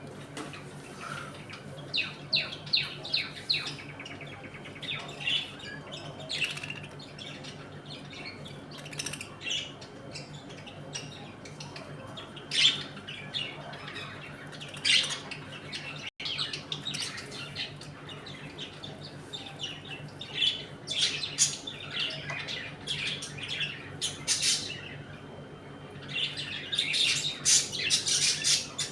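A colony of pet budgerigars chirping and twittering in short clusters of quick calls, several birds at once, with a low steady hum underneath.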